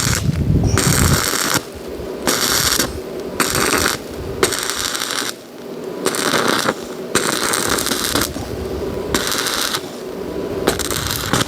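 Electric arc welding: about ten short bursts of crackling arc, each under a second, broken by brief pauses as the weld is struck again and again.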